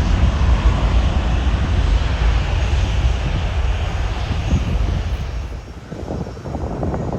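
Jet airliner passing low overhead on final approach: a loud, deep rumble with a rushing hiss that fades away about five seconds in, leaving lower wind noise.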